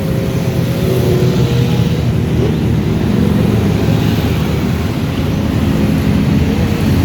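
Motorcycle engines running steadily in a group ride, several engine tones held over a constant rush of road and wind noise.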